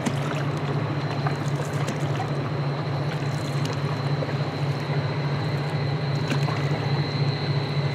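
Steady low drone of a passing towboat's diesel engines, with light water trickling and splashing close by.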